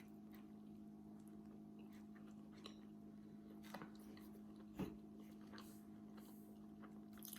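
Faint chewing and mouth clicks of someone eating a burger and fries, over a steady low hum, with one sharper click about five seconds in.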